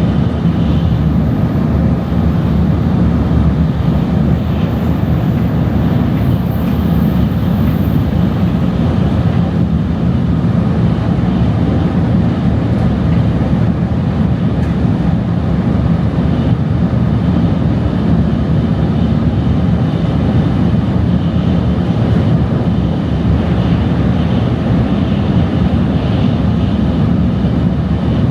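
Steady low rumble inside a Tokaido Shinkansen passenger car as the train runs along the line.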